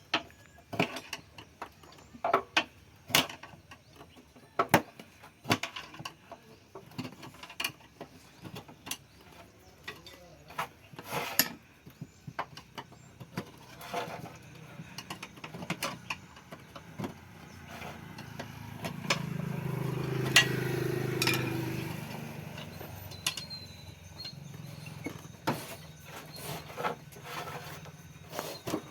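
Metal hand tools clicking and knocking at irregular intervals during motorcycle tyre puncture repair work. About two-thirds of the way through, a low motor hum swells and then fades.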